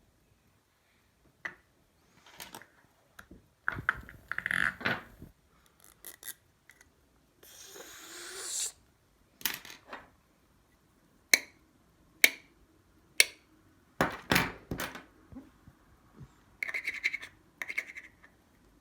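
Small objects being handled and worked by hand: scattered sharp clicks and knocks, scraping about four seconds in, and a short rising scrape near eight seconds.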